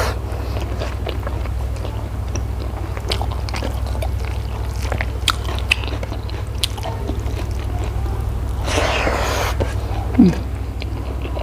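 Close-miked eating: a person biting and chewing food, with scattered wet mouth clicks and smacks over a steady low hum. A louder rushing noise lasts about a second near the end.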